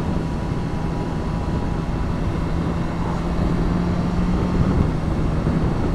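Motorcycle engine running at steady revs in a lower gear through bends, with wind and road noise on the rider's microphone; the engine grows slightly louder in the second half.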